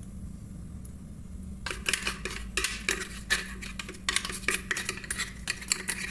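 A spoon scraping and clinking against a dish as batter is spread or scraped out, a quick irregular run of clicks and scrapes starting a little under two seconds in, over a steady low hum.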